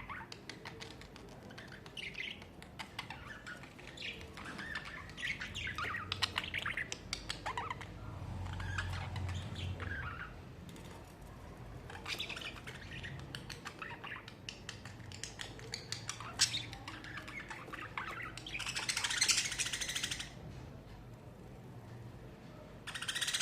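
Budgerigars chattering: a running stream of quick chirps, warbles and clicks, with a louder harsh squawk-like burst about 19 seconds in.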